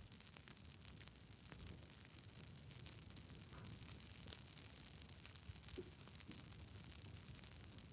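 Wood campfire crackling faintly: many small sharp pops and ticks over a steady hiss.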